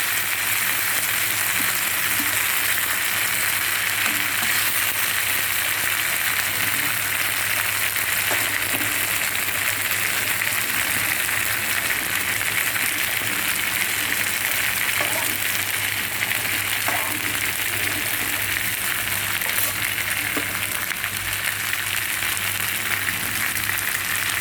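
Mutton meatballs cooking in a pan on the stove, sizzling steadily with an even hiss, over a faint low hum.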